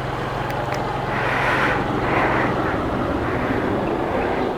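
Motorcycle engine running steadily, heard through a helmet camera's external mic, with a steady rush of wind and road noise.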